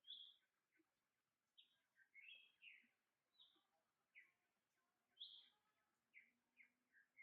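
Faint bird chirps: about a dozen short, high notes, irregularly spaced.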